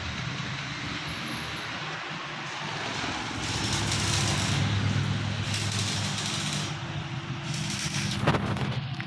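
A machine or engine running steadily, with a low hum under a hissing noise that swells for a few seconds in the middle, and a single sharp knock near the end.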